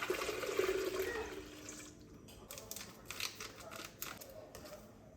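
Water running from a kitchen tap, probably into a pot, stopping about two seconds in, followed by a few light clicks and clinks.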